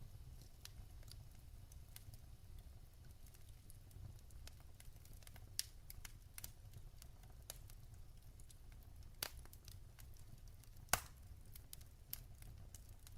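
Burning logs crackling in a fireplace: scattered small crackles with a few louder pops, the loudest about eleven seconds in, over a low steady rumble.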